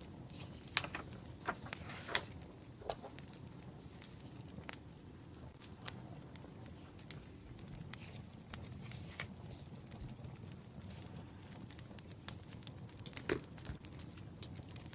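Wood fire burning, with a steady low rumble and irregular crackles and sharp pops, a few of them louder than the rest.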